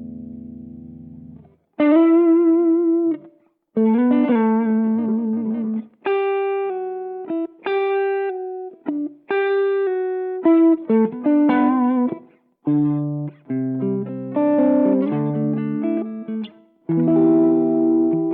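Electric guitar played through a Behringer Vintage Overdrive TO100, a Tube Screamer-style overdrive pedal. A held chord fades out, then a lead line of single notes, some with vibrato, is followed by chords near the end, with short gaps between phrases.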